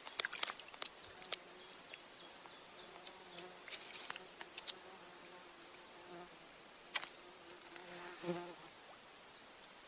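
A flying insect buzzing in a faint, wavering drone, with several sharp clicks and taps in the first second or so and a couple more later.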